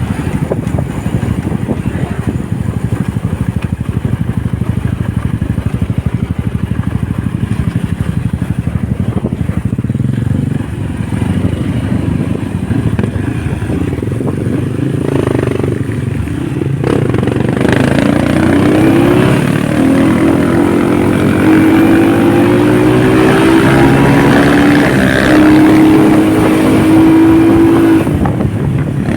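Honda motorcycle riding with heavy wind noise on the microphone; from a little past halfway the engine note comes through clearly and climbs steadily as the bike accelerates.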